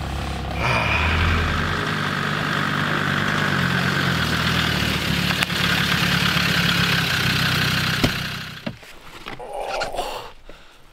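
Land Rover Defender 4x4 driving with a very loud exhaust, its engine note shifting in pitch as it pulls away. The engine sound drops away suddenly near the end.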